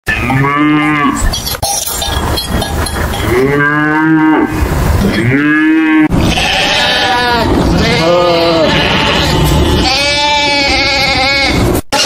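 Cattle mooing: a series of long, loud moos, each lasting about a second, one after another.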